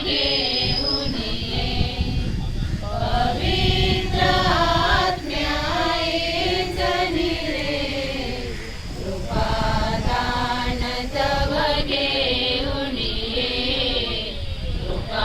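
A group of voices chanting a Christian liturgical prayer, with long held sung phrases and short pauses between them. A steady low rumble runs underneath.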